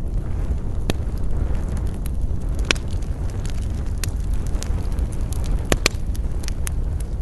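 Wood fire crackling: scattered sharp pops and snaps over a steady low rumble of burning, with two louder pops, one nearly three seconds in and one about six seconds in.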